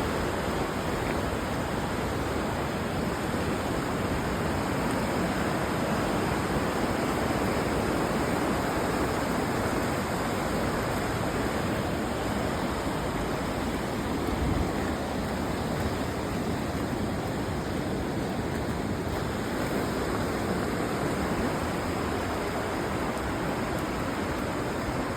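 River water rushing in a steady, even roar of flowing water.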